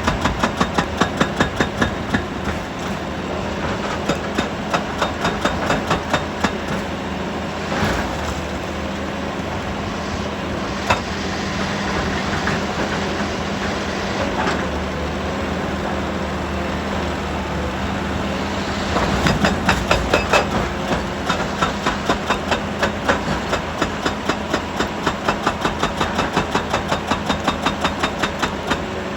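Heavy machinery running steadily with a low hum and a fast rhythmic pulsing of about four beats a second that fades back and forth. Two single sharp knocks stand out, about a third of the way in.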